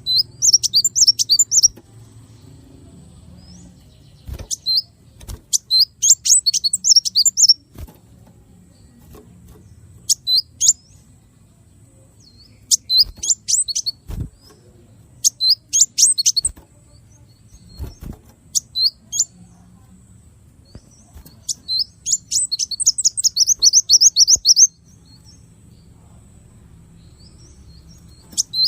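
Small songbird singing in short bursts of rapid, sharp, high-pitched notes, the quick 'shot' phrases used as training song for captive songbirds. The phrases come every few seconds, with one longer rapid trill of about three seconds near the end.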